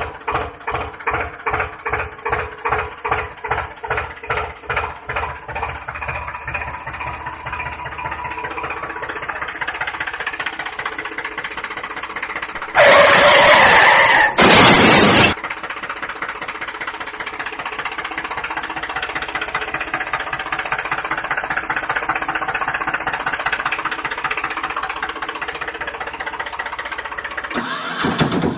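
Engine sound with a rhythmic chugging, about three beats a second, that smooths into a steady drone after several seconds. About thirteen seconds in, a much louder burst of noise lasts about two seconds, with a short break in the middle.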